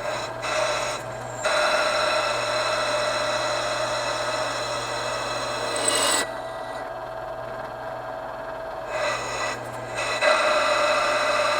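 Rodman Reaper drill bit cutting into a thick cast-iron brake rotor: a steady scraping grind with a ringing whine. It eases off twice, near the start and for a few seconds past the middle, then bites in hard again.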